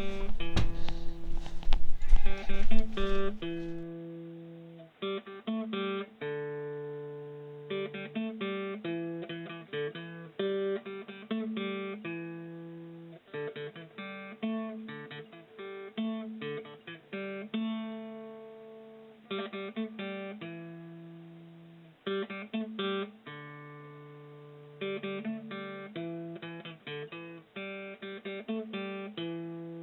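Acoustic guitar music, plucked notes ringing out and fading in short phrases. During the first four seconds, loud knocks and rumbling sound over it.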